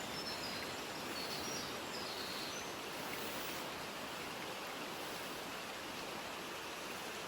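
Steady rushing mountain ambience, with a few faint, short, high bird chirps in the first couple of seconds.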